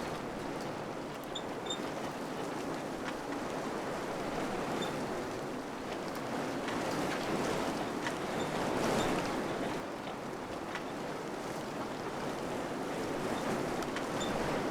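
Wind blowing in gusts, a steady rushing noise that swells to its strongest about eight or nine seconds in, then eases.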